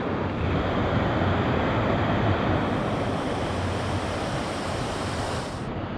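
Steady rushing noise, with an added hiss in the upper range from about halfway through that cuts off near the end.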